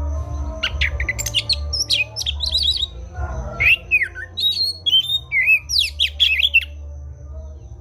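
Oriental magpie-robin (kacer) singing a rapid, varied fighting song of sliding whistles and harsh chattering notes. The song stops a little before the end, over a steady low hum.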